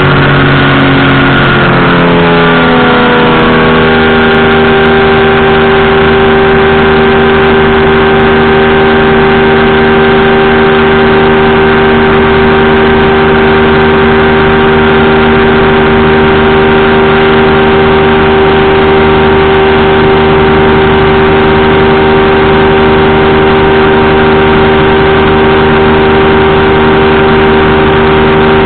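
Powered parachute's engine and propeller running loud and close, its pitch shifting over the first few seconds and then holding steady.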